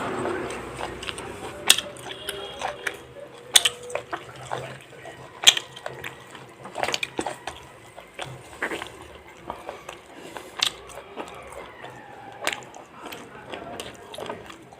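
Close-up eating sounds of fried chicken being chewed: irregular sharp crunches and mouth clicks, some with a wet, saucy edge.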